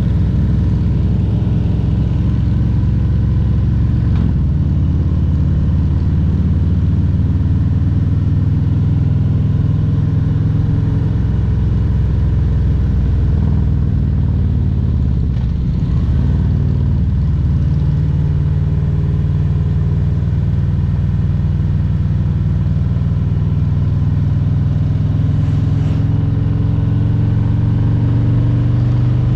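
2022 Harley-Davidson Road Glide Special's Milwaukee-Eight 114 V-twin running on the road at steady speed. About halfway through it eases off briefly, with a drop in level and pitch, then pulls again, the pitch rising slightly near the end.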